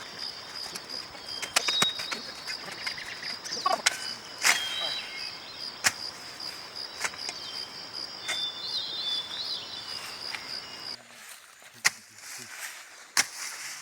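An insect trills steadily at a high pitch and stops abruptly about eleven seconds in. Scattered sharp knocks and a few bird chirps sound over the rural background.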